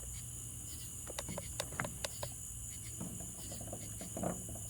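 Crickets chirping steadily in a continuous high trill, with scattered faint sharp clicks and ticks.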